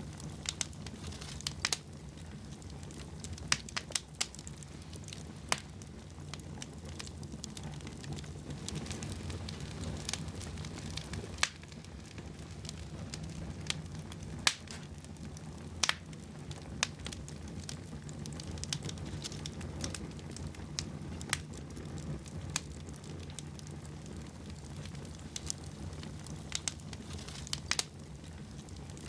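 Wood fire burning in a fireplace: a steady low rumble of flame with irregular crackles and sharp pops, a few of them louder.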